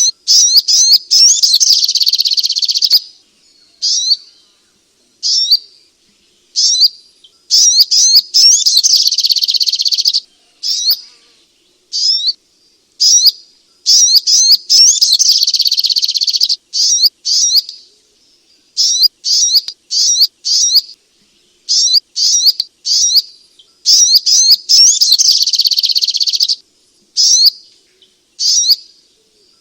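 Sogok ontong bird song: high-pitched chirping that comes in long, rapid runs of about three seconds, broken up by short separate calls and brief gaps.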